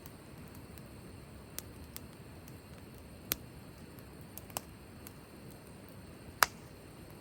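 Firewood burning in a campfire: a few sharp, irregular pops and crackles over a low steady hiss, the loudest pop about six seconds in.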